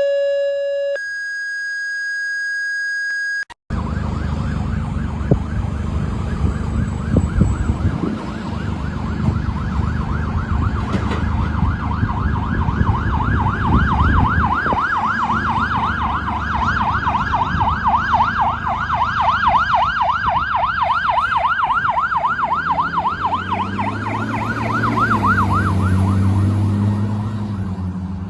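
Fire engine responding, its electronic siren in a fast up-and-down yelp over the rumble of the truck's engine. It is preceded by a few seconds of steady electronic tones.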